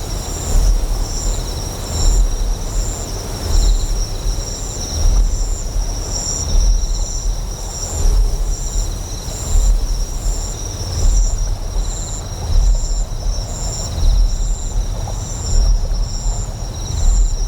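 Deep, steady generator hum that swells about once every one and a half seconds, under rhythmic insect chirping at about two a second and a wash of flowing water.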